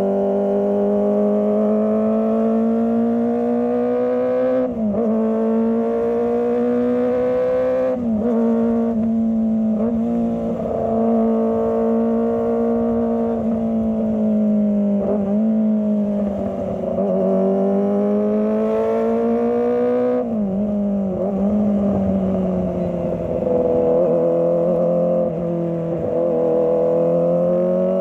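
Kawasaki ZX25R's 250 cc inline-four engine running at high revs while riding. Its steady note slowly rises and falls, and breaks briefly about five times.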